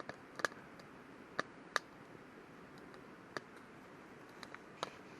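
Wood campfire crackling, with sharp pops at irregular intervals over a faint steady hiss.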